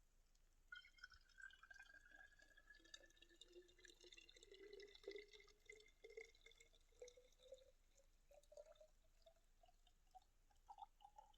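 Freshly boiled water being poured into a cup, with a faint trickle and splashes. The note rises steadily as the cup fills.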